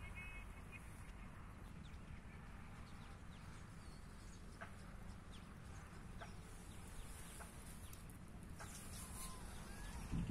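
Faint, scattered short bird calls over a steady low rumble, with a thump right at the end.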